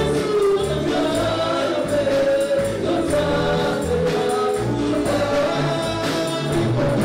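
Gospel choir singing over band accompaniment with a bass line and a steady percussion beat.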